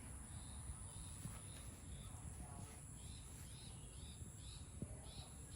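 Songbirds chirping faintly: short high notes repeated about twice a second, over a steady high-pitched background whine.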